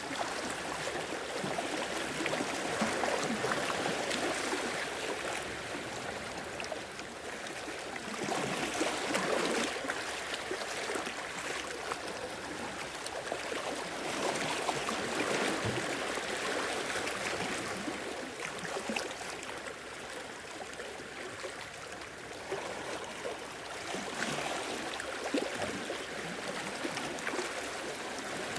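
Sea waves washing in and draining back over rocks and sand, a steady rush of water that swells and eases every several seconds.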